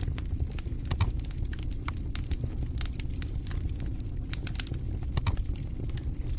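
Campfire crackling, with irregular sharp pops and snaps, a louder pop about a second in and another about five seconds in, over a steady low rumble.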